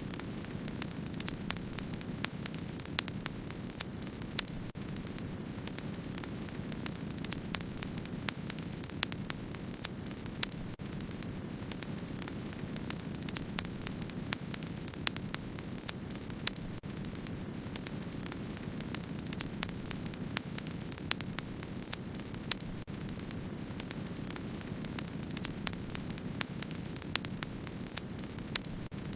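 Wood fire crackling: a steady low rushing hiss with many small sharp crackles and the odd louder pop.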